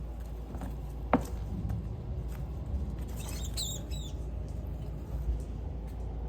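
A sharp click about a second in, then a brief cluster of high, wavering squeaks from a rat around the middle, over a steady low hum.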